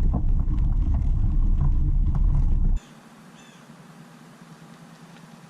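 Wind buffeting a GoPro's microphone while cycling, a loud uneven rumble with light rattles from the bike. About halfway through it cuts off abruptly to a faint outdoor background with a few short bird chirps.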